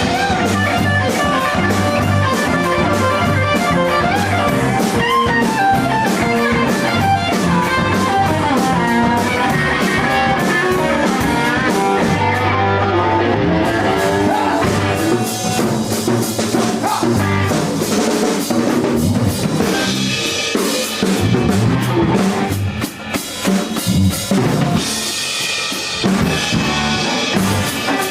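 Rock band playing: an electric guitar plays lead lines over a drum kit, and in the second half the drums come to the front with cymbal crashes and a short break.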